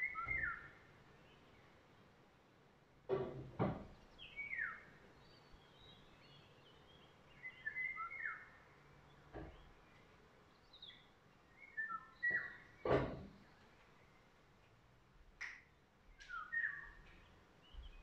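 Songbirds singing short, falling whistled phrases every few seconds over a faint steady hiss. A few sharp knocks or clicks cut through, the loudest a pair about three seconds in and one about two-thirds of the way through.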